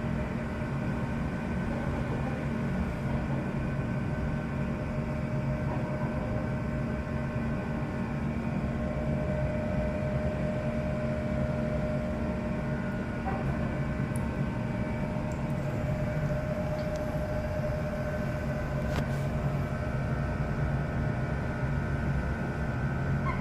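A steady mechanical drone with a few held tones, unchanging throughout, like a running engine or machine.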